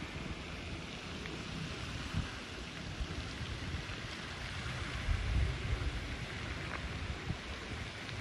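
Wind buffeting the microphone in irregular low rumbling gusts, strongest about five seconds in, over a steady rushing outdoor noise.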